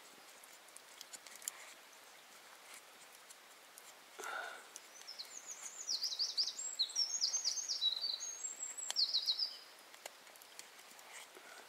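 A small songbird singing a fast, high, twittering song of rapid falling notes for about five seconds, starting about five seconds in. Before it there are only faint scattered ticks over a low outdoor background.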